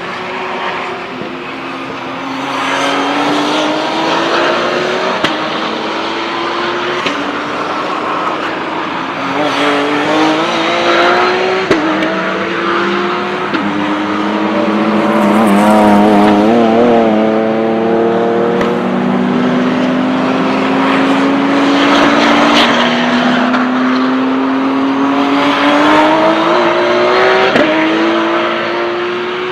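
Porsche 911 GT3 Cup race cars' flat-six engines accelerating hard through the gears, each note climbing in pitch and then dropping sharply at an upshift, over and over, with several cars passing one after another.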